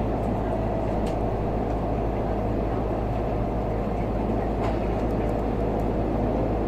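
Cabin noise of an N700S Shinkansen train getting under way: a steady low rumble with a faint electric whine above it.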